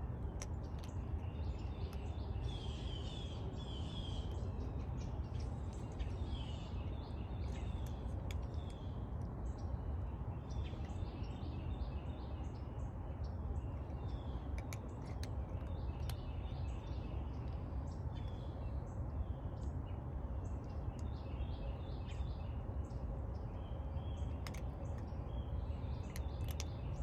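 Small birds chirping repeatedly in short high calls over a steady low rumble of outdoor background noise, with scattered faint clicks.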